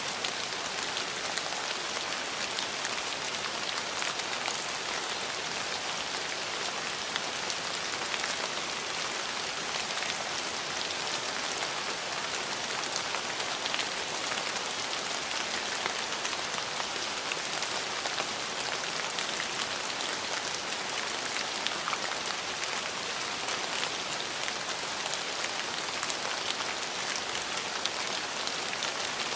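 Steady rain falling on hard surfaces: an even hiss with many fine drop ticks, unchanging throughout.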